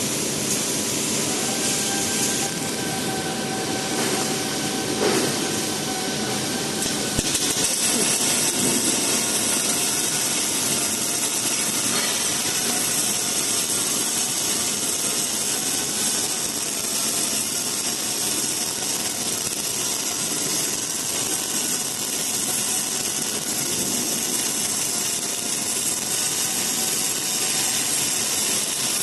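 Welding arc running steadily on a robotic circumferential seam weld of a small pipe: a continuous crackling hiss. A faint whine in the first seven seconds gives way to a brighter, higher hiss that holds to the end.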